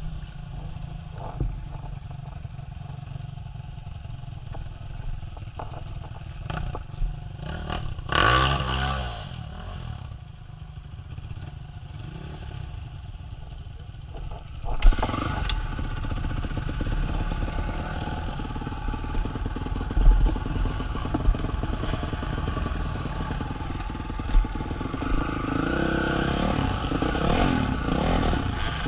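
A motor engine running with a steady low rumble and some clatter, getting louder and rougher about halfway through.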